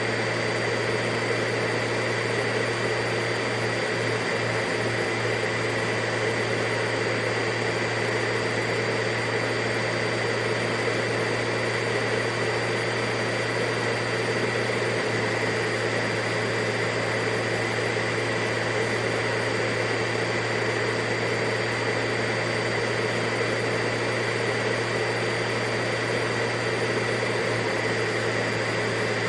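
Vacuum cleaner motor running steadily with a constant whine over an even rushing of air, unchanging in pitch and level.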